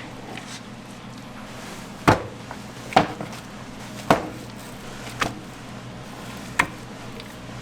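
Knife chopping on a cutting board: five sharp strokes spaced about a second apart, with a steady low hum beneath.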